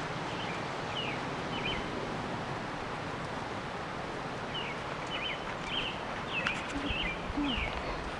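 Steady outdoor rustling background noise with short high bird chirps: a few near the start, then a run of about seven in the second half.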